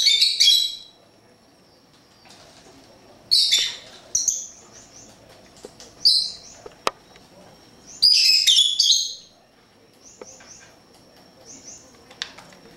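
Pet birds chirping: loud, high bursts of chirps about every two to five seconds, with quieter runs of short, quickly repeated notes between them.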